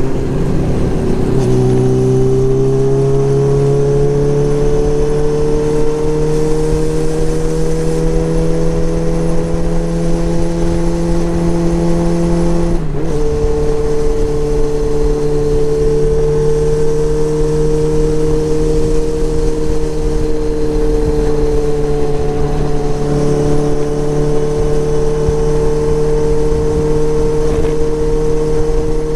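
Motorcycle engine running under way, with wind rush on the microphone. The engine note rises slowly, drops with a gear change about 13 seconds in, then holds a steady cruising note.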